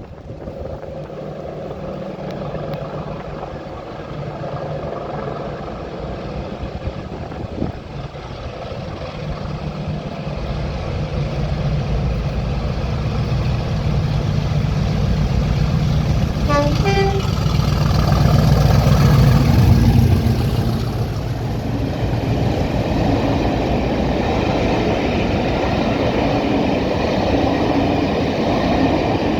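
Class 50 diesel locomotive's English Electric 16CSVT V16 engine working hard under power, a racket growing louder as it approaches and peaking as it passes about twenty seconds in. The rumble of the train's coaches rolling by follows. A short horn sounds about sixteen seconds in.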